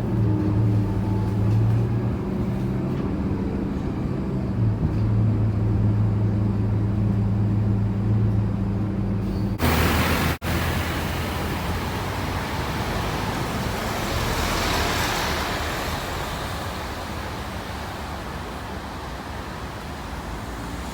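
Scania K230UB single-decker bus's diesel engine running with a steady low hum, heard on board. About ten seconds in, the sound changes abruptly to a broad rushing road and traffic noise that slowly fades.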